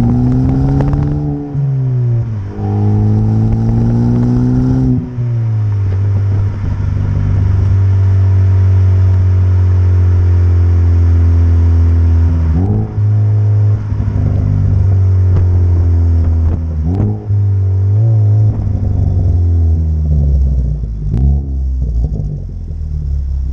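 Ford Focus ST's turbocharged four-cylinder engine through an MBRP cat-back exhaust, accelerating under throttle: the pitch climbs and drops at a gear change twice in the first five seconds, then holds a steady drone while cruising, with brief rev blips later on.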